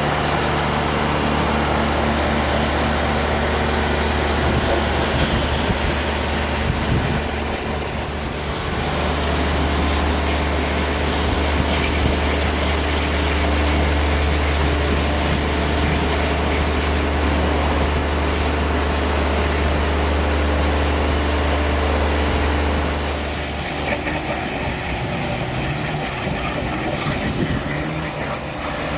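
A vehicle engine running with a steady low drone, which eases briefly about eight seconds in and drops away about 23 seconds in.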